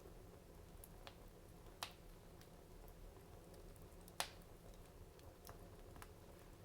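Wood fire in a fireplace crackling faintly, with a few scattered pops; the two sharpest come about two and four seconds in.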